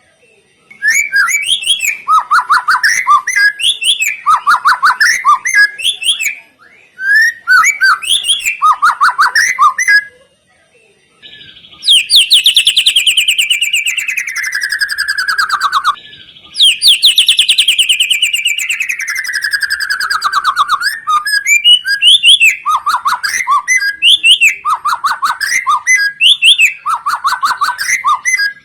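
Songbird song from a lure recording: bursts of quick, clear chirping phrases, with two long rapid trills in the middle that slide steadily down in pitch over about four seconds each.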